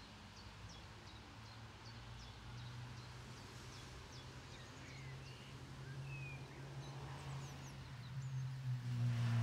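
Small songbirds chirping and singing in short scattered calls, over a low steady hum that grows louder toward the end.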